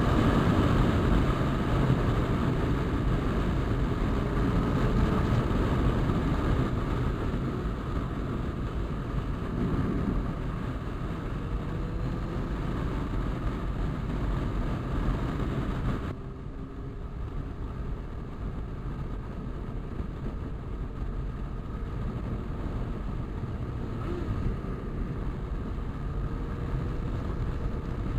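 A motorcycle riding along the road, its engine rumbling under heavy wind noise on the microphone. About halfway through, the hiss drops away suddenly and the sound gets quieter.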